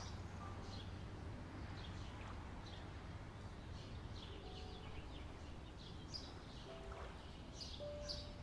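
Outdoor ambience of small birds chirping in short, scattered calls over a steady low rumble, with a few faint held notes of soft music.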